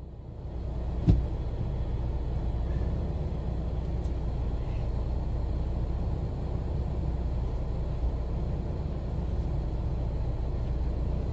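Steady low rumble inside a closed car cabin, the car's idling engine heard through the body, with a single short click about a second in.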